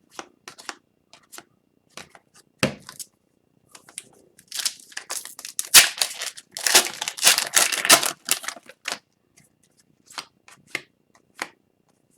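Trading cards being handled with light flicks and taps, then a foil card pack torn open and crinkled for several seconds in the middle, followed by a few more card flicks.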